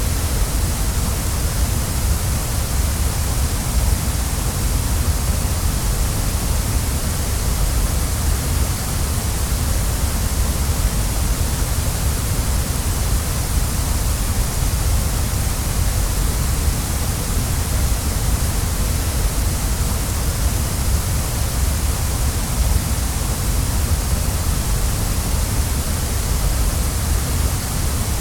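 Waterfall: a steady, unbroken rush of falling water, with a deep rumble under a bright hiss and no change in level throughout.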